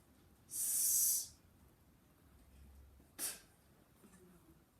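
A man's breath: a hissing rush of air lasting under a second, then a short sharp sniff or exhale about three seconds later.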